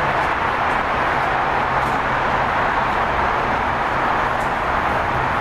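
Steady rushing noise of a vehicle on the move, with a low drone underneath that holds an even level throughout.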